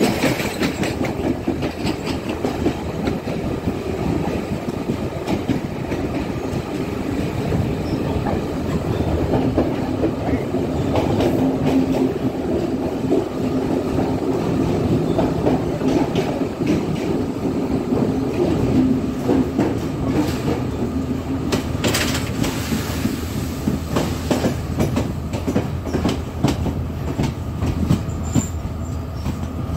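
Passenger train running at speed, heard from aboard: a continuous rumble with wheels clicking over rail joints. A steady low hum comes in through the middle, and a cluster of sharp clacks comes a little after twenty seconds in.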